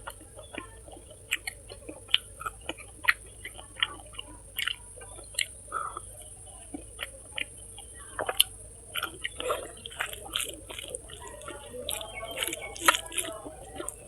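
Close-miked wet chewing and lip-smacking of a person eating rice, meat and fried small fish: irregular short smacks and clicks, busier in the last few seconds.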